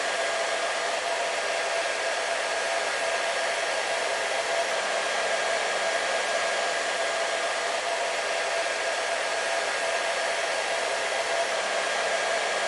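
Hair dryer running steadily, a constant rush of air with a motor hum on top.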